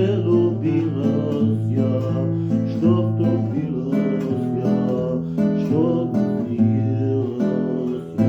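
Acoustic guitar strummed, playing the chord accompaniment of a Ukrainian birthday song, with the chords changing every second or so.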